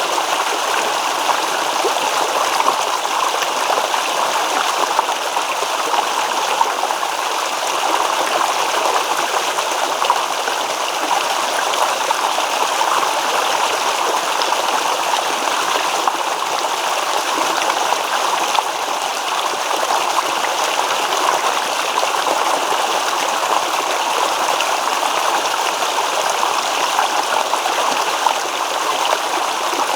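Shallow stream babbling: water running steadily over stones, an even rushing and gurgling with no pause.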